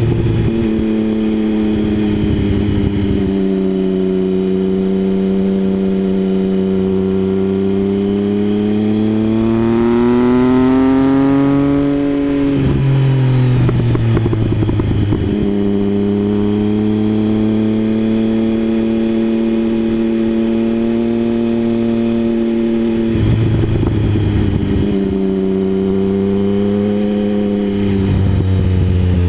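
Triumph Speed Triple 1050's inline three-cylinder engine running through a Mivv aftermarket exhaust while riding, mostly at a steady pitch. Its pitch climbs for a few seconds about ten seconds in, then drops suddenly, with two smaller shifts later on.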